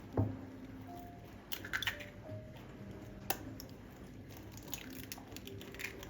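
Light clicks and taps of kitchen handling, the sharpest just after the start and one about three seconds in, over quiet background music with a few soft held notes.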